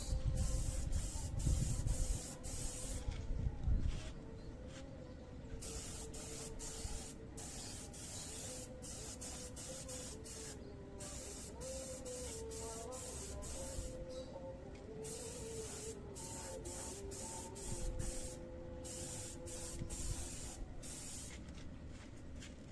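Clear coat being sprayed onto an engine in short on-off bursts of hiss, again and again. There are a few low thumps in the first few seconds.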